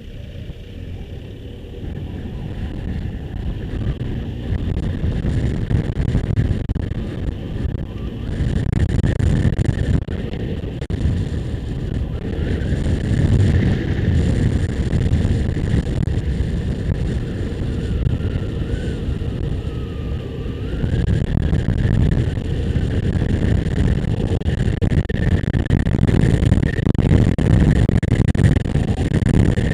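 Motorcycle under way, its engine mixed with heavy wind rush on the microphone, growing louder over the first several seconds as it picks up speed and then staying loud.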